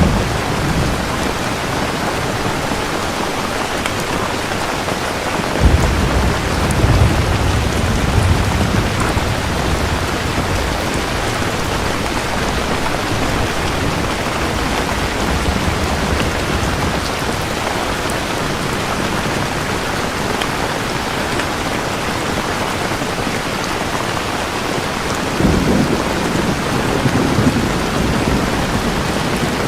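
Steady heavy rain falling, with thunder rumbling twice: a low roll starting suddenly about five and a half seconds in and lasting a few seconds, and another near the end.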